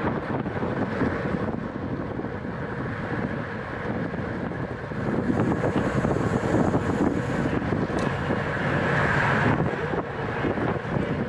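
Wind rushing over the microphone of a rider's camera at race speed in a road-bike criterium, with a steady rumble of road noise beneath.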